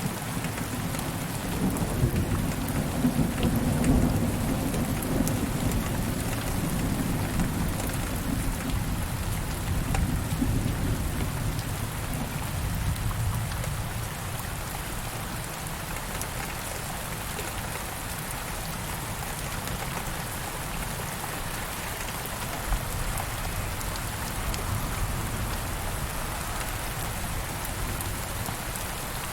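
Steady rain falling, with a deep roll of thunder that swells over the first few seconds and dies away by about halfway.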